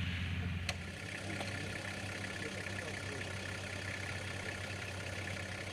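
Off-road vehicle's engine idling steadily with a low, even hum. A sharp click comes under a second in.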